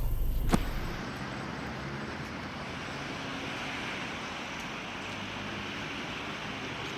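Steady road and tyre noise of a car driving, with a sharp click about half a second in where a louder low rumble gives way to it.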